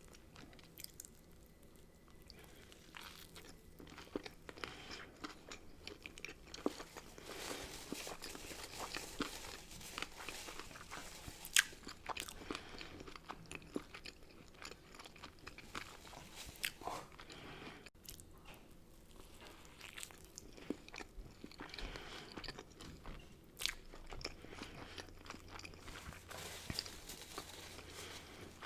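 A person biting and chewing crunchy food close to the microphone: a steady run of wet crunches and crackles.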